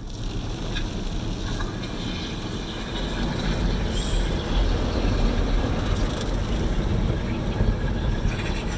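Automatic car wash's rotating brush scrubbing against the car, heard from inside the cabin. It comes in suddenly as a loud, steady swishing with a deep rumble underneath.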